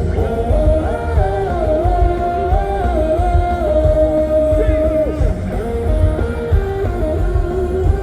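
Live rock band playing through a PA, with heavy bass and drums under a lead melody line of held and sliding notes, at the start of a song before the main sung verse.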